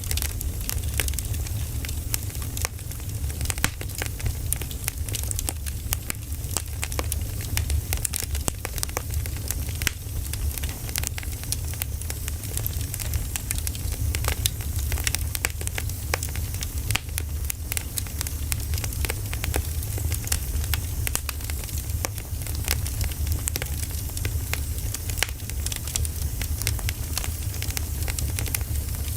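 Wood fire burning, with irregular crackles and pops of firewood over a steady hiss and a low rumble.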